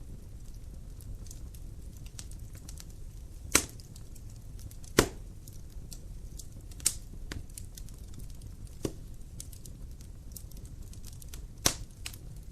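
Wood fire in a fireplace crackling, with a low steady rumble and constant small ticks. About five sharp pops are spread through it.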